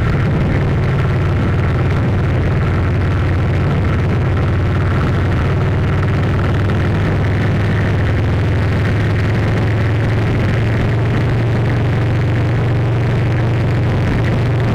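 Steady, loud low drone of an engine running without change.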